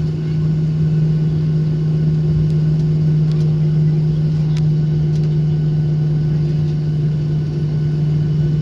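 Steady low hum of a Boeing 737-800 taxiing with its CFM56-7B engines at idle, heard inside the cabin, with a few faint clicks in the middle.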